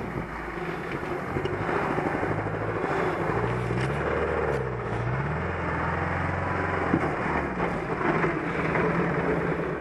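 UAZ-469 off-roader's engine labouring as the vehicle crawls over sandy, snow-covered mounds. The engine pitch dips and rises with the throttle about four to five seconds in.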